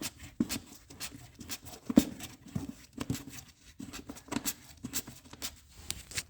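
Scattered light clicks and knocks of parts and tools being handled during generator repair work, the loudest one about two seconds in.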